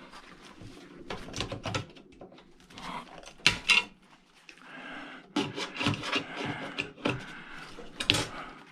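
Clanks, knocks and rattling of metal parts and tools as an old 12 V battery charger is taken apart by hand. The sharpest knocks come a little after three seconds and again near the end.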